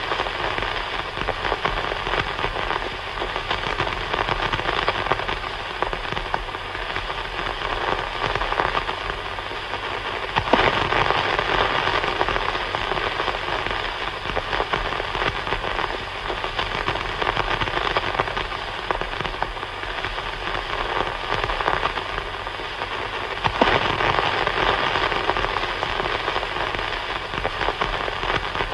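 Walkie-talkie static: a steady, dense hiss squeezed into the radio's narrow band, stepping up louder for a few seconds about a third of the way in and again near the end.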